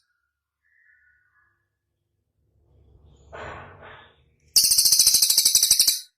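Songbird giving a loud, very fast, high-pitched trill for about a second and a half near the end, after a gap with a few faint chirps about a second in and a short muffled noise in the middle.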